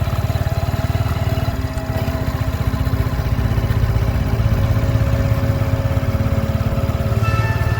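An engine running steadily, with a fast low pulse.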